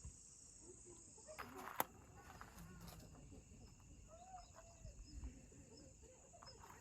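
Near silence with a faint, steady high insect sound like crickets and one light click a little under two seconds in.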